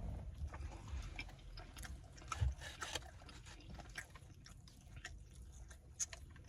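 A person chewing and eating food: a run of small, irregular mouth clicks and smacks.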